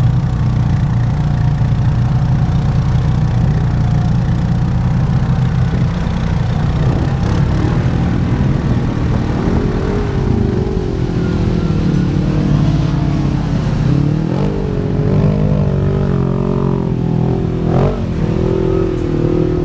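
Off-road vehicle engine running hard through a mud hole. Its pitch rises and falls again and again from about halfway in as the throttle is worked.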